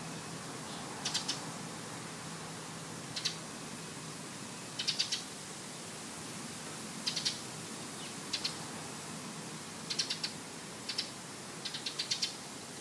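A bird giving short, rattling clicky calls, two to four quick notes at a time, repeated every second or two over a steady background hiss.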